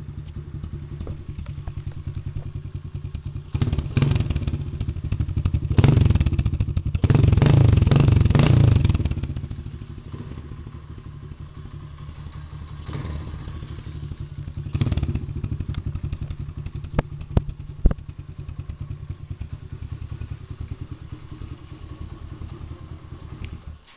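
A 110cc single-cylinder four-stroke engine on a Chinese dirt bike, running on its stock exhaust. It is revved up several times: short revs at about 4 and 6 seconds, the longest at about 7 to 9 seconds, and smaller ones later. Two sharp clicks come about 17 and 18 seconds in, and the engine cuts off just at the end.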